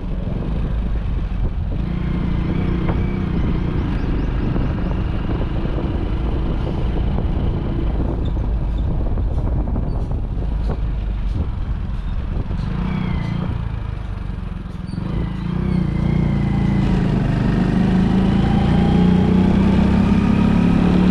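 Motorcycle engine running under way. Its pitch climbs and it grows louder about three-quarters of the way through as the bike accelerates.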